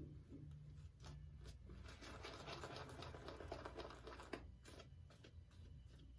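Faint scratching of a safety razor scraping through lathered stubble, strongest in a run of strokes about two seconds in.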